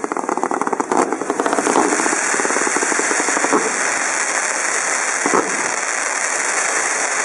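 Fireworks going off at close range: a rapid run of crackling reports for about the first two seconds, then a steady hissing spray of sparks.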